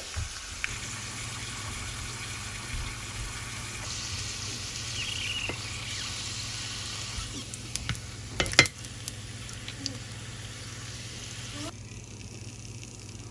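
Corn tortilla frying in shallow oil in a pan to become a crunchy taco shell: a steady sizzle, with a few sharp clicks about two-thirds of the way through.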